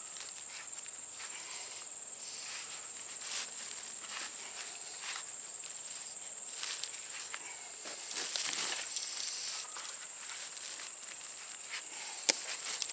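Footsteps and rustling in the leaf litter of a woodland floor, with a steady high-pitched insect-like drone throughout and a sharp click about twelve seconds in.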